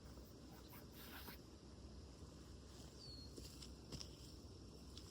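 Near silence: faint outdoor background hiss, with a few soft rustles and clicks and one brief high chirp about three seconds in.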